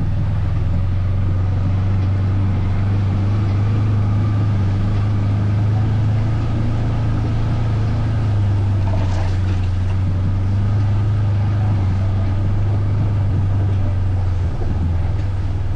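Off-road vehicle's engine running steadily at low revs, a constant low drone.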